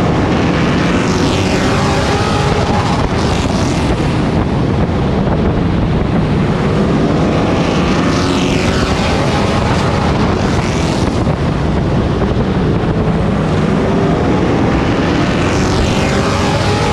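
Race truck's engine heard on board at racing speed, its pitch sweeping up and down as it accelerates and lifts, about every seven seconds, with wind buffeting the microphone.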